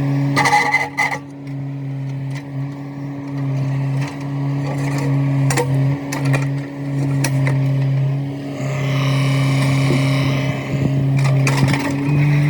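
Heavy digging machine's engine running steadily, with scattered sharp knocks and a higher whine for a couple of seconds about nine seconds in.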